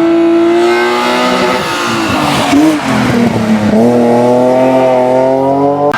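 Race car engine at high revs. About two seconds in the revs drop and waver, as for braking and a downshift, then they climb steadily again under acceleration.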